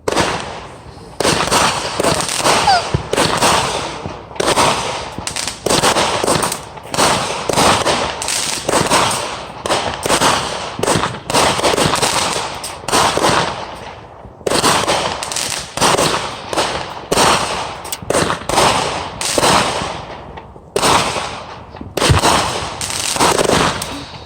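Fireworks going off in a rapid series of loud bangs, about one or two a second, each trailing off briefly, with short pauses about halfway through and near the end.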